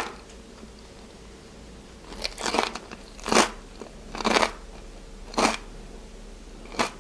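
Crisp, crackled pork belly skin of a roast porchetta crunching loudly as it is chewed: a series of sharp crunches about one a second, starting about two seconds in.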